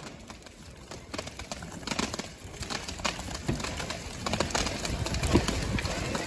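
Scattered firework pops and crackles with a few dull thuds, quieter than the loud bangs just before.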